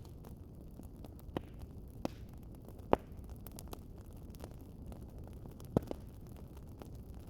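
Wood fire crackling in a fireplace: a steady low rumble of burning with many faint ticks and a handful of sharp pops, the loudest about three seconds in.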